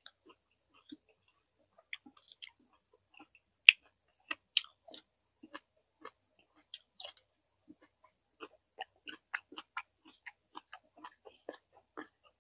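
Close-miked chewing of roasted vegetables: scattered soft mouth clicks, then a sharp click about three and a half seconds in and a denser run of chewing from about four and a half seconds on.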